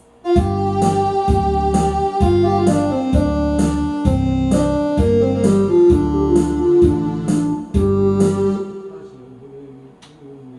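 Backing track for a Korean trot song: a keyboard and organ melody over a steady beat of low hits about once a second. It starts suddenly just after the beginning and breaks off and dies away a little before the end.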